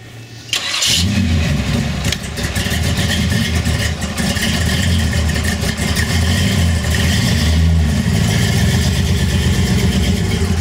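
Supercharged hot-rod engine of a 1928 Ford Model A starting about half a second in, then running with a steady low rumble.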